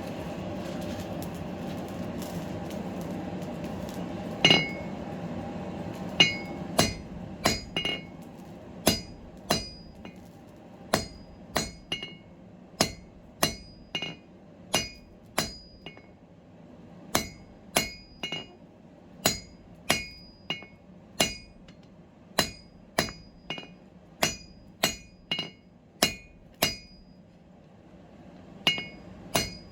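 Blacksmith's hammer striking steel on an anvil at a steady pace, about one and a half blows a second, each with a short metallic ring. A steady rushing noise comes before the first blow, about four seconds in, and the blows pause briefly near the end.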